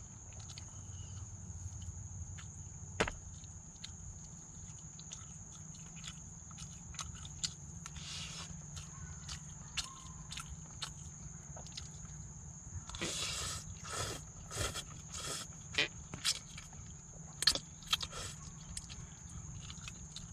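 Scattered drops tapping on a camping tarp over a steady high hum and a low rumble, with a denser run of louder taps and scuffs from about 13 to 18 seconds in.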